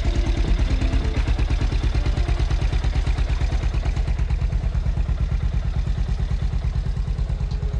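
Enduro dirt bike engine running at a steady speed, with an even, rapid low pulsing of firing strokes and some mechanical clatter.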